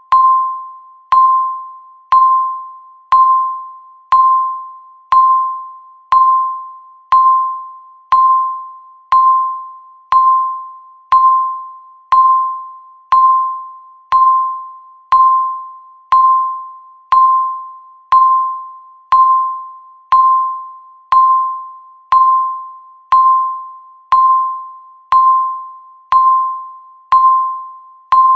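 Countdown timer's electronic beep sounding once every second, each a single clear tone that starts sharply and fades away before the next.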